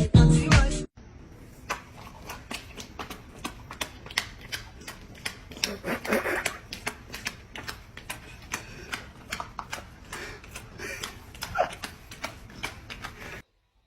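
A pet chewing dry food: a quick, irregular run of crisp crunching clicks, several a second, that stops suddenly near the end.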